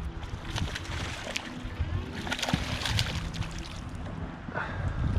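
Water splashing and sloshing against a kayak, in irregular bursts, the loudest between about one and three seconds in.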